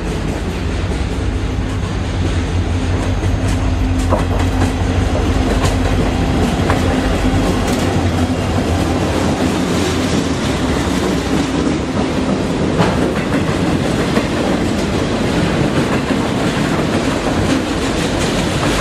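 CSX diesel freight locomotives passing close by with a steady engine drone, followed by a string of autorack cars rolling past with wheels clacking over the rail joints. The engine tone fades out about two-thirds of the way through, leaving only the rolling and clacking of the cars.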